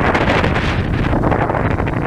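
Heavy wind buffeting the microphone of a camera on a moving dirt bike, with the motorcycle's engine running underneath.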